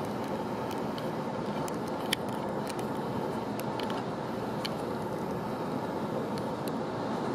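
GO Transit commuter train running: a steady rumble with scattered sharp clicks and rattles, the loudest click about two seconds in.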